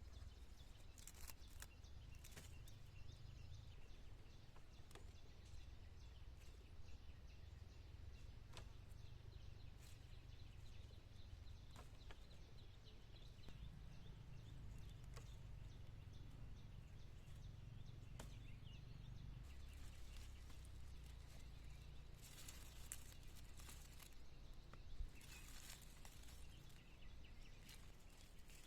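Near silence: faint outdoor ambience with a low steady rumble, scattered small clicks and a few brief rustles near the end.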